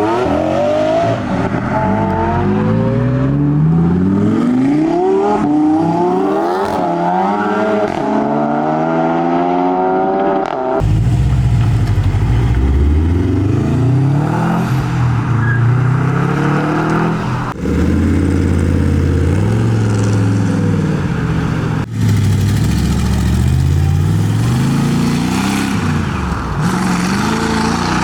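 Sports car engines accelerating hard away, the engine note climbing in pitch again and again as the cars rev up through the gears. About eleven seconds in the sound changes abruptly to a deeper engine, which also revs up repeatedly.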